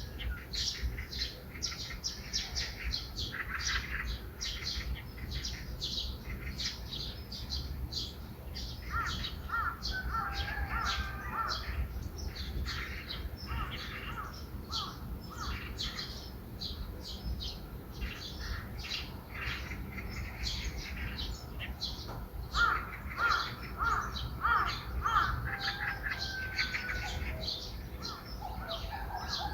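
Many small birds chirping and twittering in quick, dense succession, a morning bird chorus. A louder series of harsher repeated calls comes about three quarters of the way through, over a low steady outdoor rumble.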